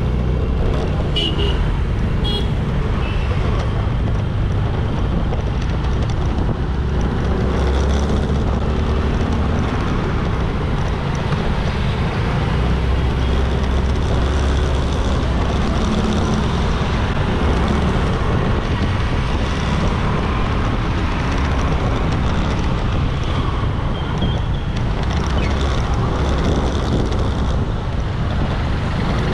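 Motorbike engine running steadily while riding through traffic, with wind rushing over the microphone and road noise around it. A couple of short high-pitched beeps sound in the first few seconds.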